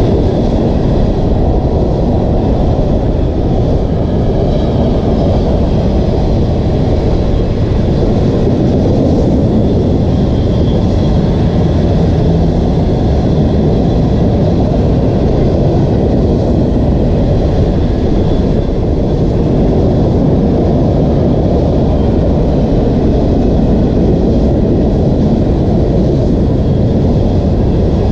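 Union Pacific mixed freight train rolling past, a steady loud rumble of wheels on rail that does not let up.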